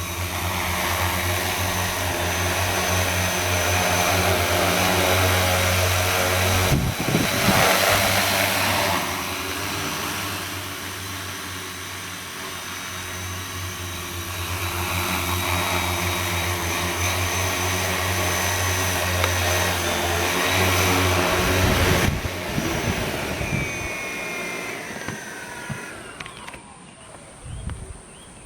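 Agricultural spraying drone's electric motors and propellers running with a steady hum, with a louder rushing surge about seven seconds in; the motors cut off about 22 seconds in and the hum winds down.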